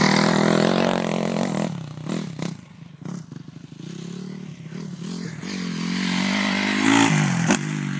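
Motocross bike engine revving, its pitch rising and falling as the throttle opens and closes: loud at first, dropping off a couple of seconds in, then climbing back up and peaking near the end.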